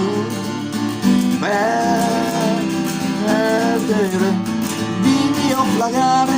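Music: strummed acoustic guitar with a melody line gliding over it.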